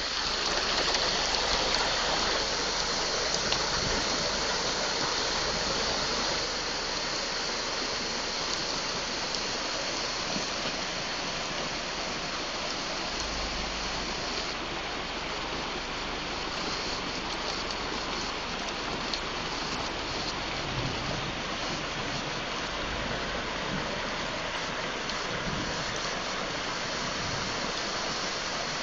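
Floodwater runoff rushing steadily as a constant wash of noise, a little louder for the first few seconds.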